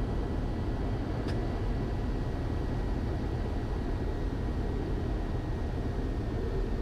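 Steady drone of a Cessna 172's engine and propeller heard in the cockpit on approach, with one brief click a little over a second in.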